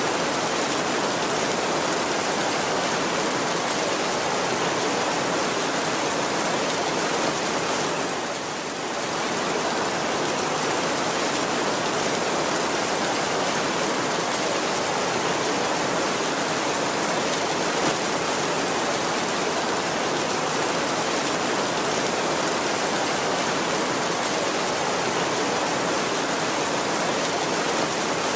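Heavy rain falling steadily on a tin roof, an even hiss that eases off briefly about eight seconds in.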